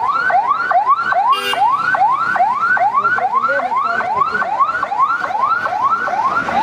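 Electronic siren sounding a fast, repeating rising wail, about three sweeps a second. A short crackle cuts in about one and a half seconds in.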